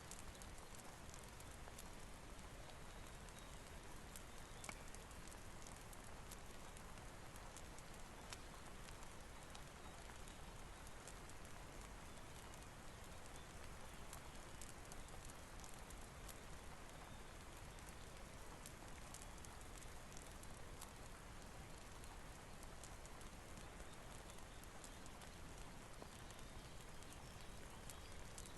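Faint steady rain hiss with scattered small pops and crackles of a wood fire.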